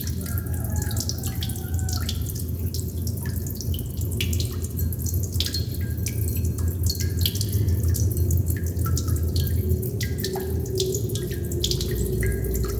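Water droplets dripping: many irregular, sharp plinks, several a second, some with a short ringing pitch, over a steady low rumble.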